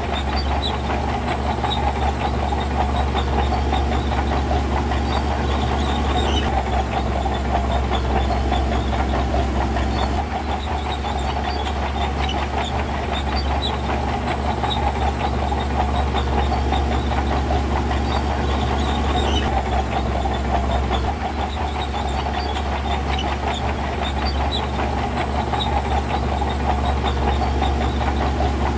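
Heavy diesel earthmoving machinery running steadily under load, a deep engine note with a continuous rattling clatter over it.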